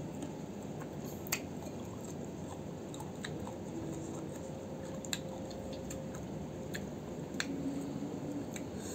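Chewing on firm, young jambu fruit, with a few short sharp crunches spaced a couple of seconds apart.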